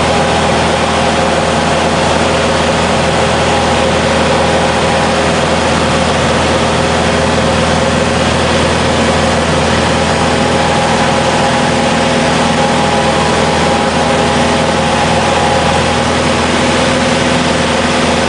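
Light propeller airplane's piston engine running steadily at constant speed, its pitch holding level without revving up or down.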